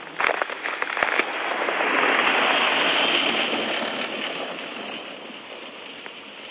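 A few crunching footsteps in snow, then a rushing hiss that swells over about two seconds and fades away again.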